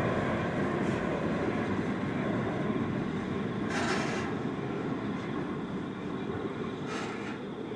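Empty grain hopper wagons of a freight train rolling on the rails, their steady rumble fading as the train draws away. Two short hisses come about four and seven seconds in.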